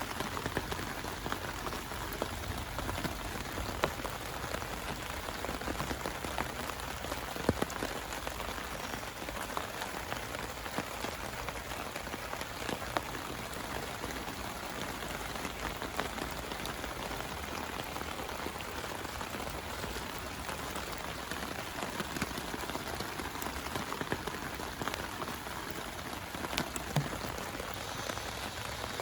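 Steady heavy rain falling, with scattered individual drops ticking sharply on a nearby surface.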